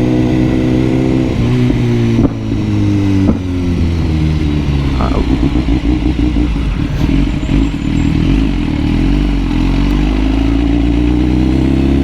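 BMW superbike engine running as the bike is ridden, its pitch falling over the first couple of seconds with two sharp breaks around two and three seconds in, rougher in the middle, and climbing again near the end.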